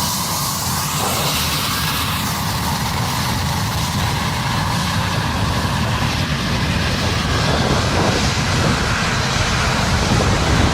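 Airbus A320 airliner landing: a steady rushing rumble of jet engines and airflow that grows slightly louder over the clip.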